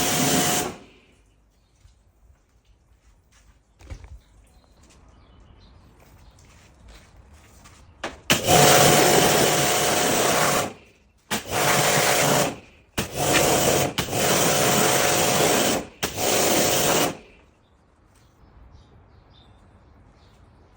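A high-pressure cleaning jet hissing at an engine in bursts during an engine wash. It cuts off within the first second. After a long quiet pause with a few faint clicks, it fires again in five bursts of one to two seconds each, each with a steady whine.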